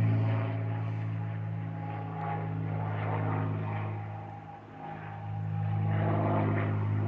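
A steady engine drone: a low hum with its overtones. It fades a little over halfway through, then swells back.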